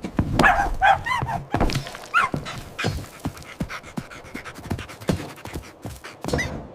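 An animal's short calls, bending up and down in pitch, then a long run of quick taps and knocks, with one more call near the end.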